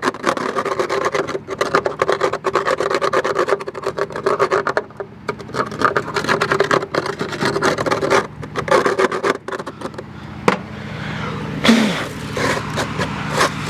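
Hand work on lawn tractor parts: metal scraping, rubbing and rapid clicking over a steady hum.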